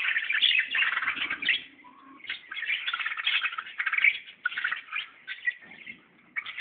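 Many small birds chirping together in a dense, continuous chatter, with short lulls about two seconds in and near the end.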